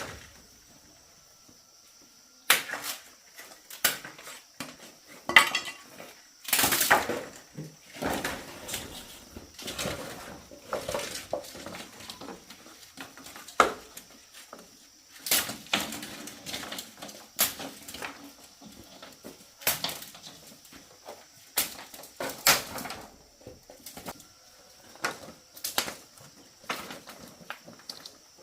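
Irregular knocks and clatter of hard objects being handled and set down, some strokes in quick clusters, over a faint steady high-pitched background tone.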